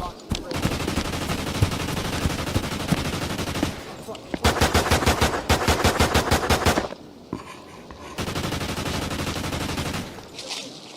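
Sustained automatic gunfire in three long strings. The middle string, from about four and a half to seven seconds in, is the loudest, with evenly spaced shots at roughly eight a second.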